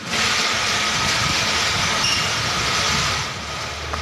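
Loud, steady hiss of compressed air from a tractor-trailer's air system, cutting off after about three seconds, over the low rumble of the truck's running engine.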